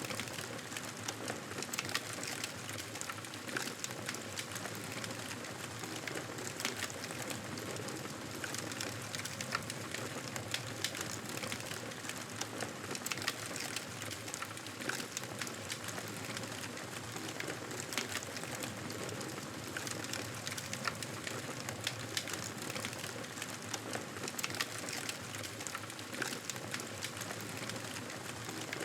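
Wood fire crackling in a fireplace: frequent sharp pops and snaps over a steady hiss.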